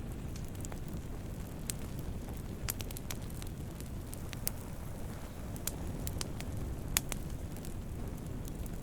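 Wood campfire burning with a steady low rumble and irregular sharp crackles and pops, the loudest pop about seven seconds in.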